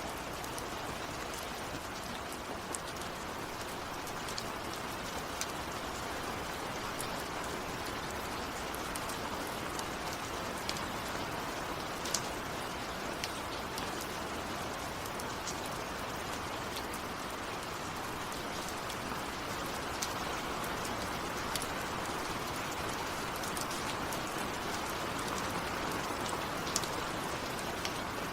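Steady rain falling, a dense even hiss with scattered sharper ticks of individual drops striking close by.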